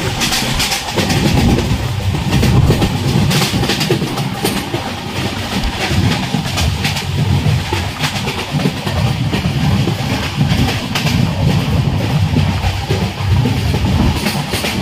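Train running at speed, heard from inside a coach at the window: a loud, uneven rumble with scattered clicks and clatter of the wheels on the rails.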